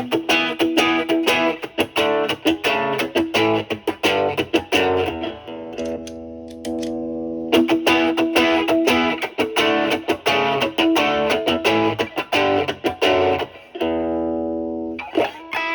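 Electric guitar (a Stratocaster) played through an overdrive pedal into a Marshall Valvestate's clean channel, only lightly driven in the pedal's 'cleanup' setting. Quick picked runs are broken by held notes about a second in, about eight seconds in and near the end.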